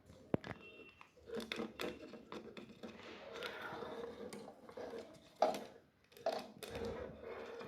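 Light clicks and knocks of small objects being handled, with sharp taps about a third of a second in and about five and a half seconds in.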